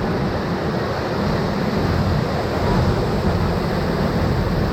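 Whitewater rushing steadily around a raft running a river rapid.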